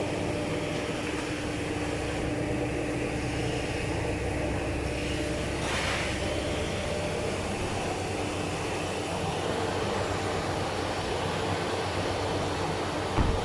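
Steady mechanical drone with a constant low hum. A brief hiss comes about six seconds in, and a single thump sounds near the end.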